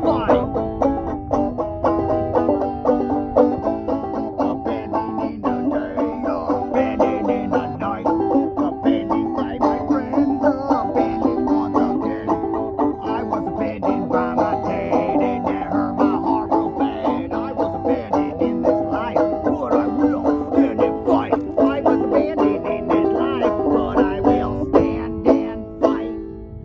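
Bluegrass-style string band music led by fast banjo picking, dropping away in level near the end.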